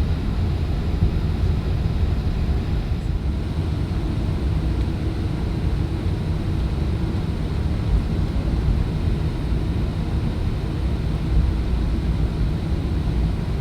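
Airbus A380 airliner noise heard from inside the passenger cabin during departure: a steady, loud low rumble of the engines and airframe.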